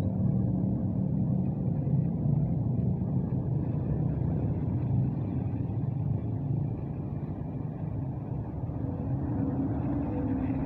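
Bus engine running with a steady, low rumble that holds an even pitch, dipping slightly in loudness past the middle.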